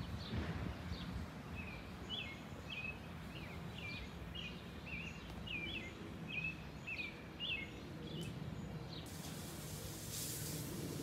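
A bird chirping repeatedly in short, quick notes that rise and fall in pitch, over a low steady rumble from a jet airliner passing high overhead. A thin hiss comes in near the end.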